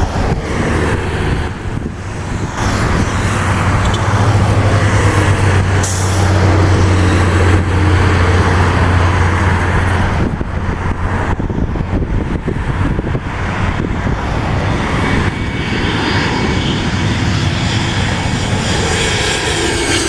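Loud, steady engine roar with a strong low hum through roughly the first half, then a rushing noise that carries on without the hum.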